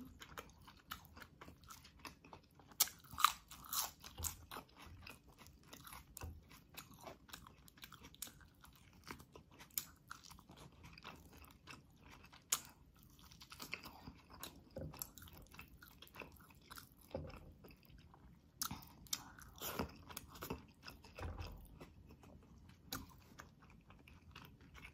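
Close-miked chewing and biting with scattered small crunches and mouth clicks: a person eating braised beef rib and cooked napa cabbage by hand.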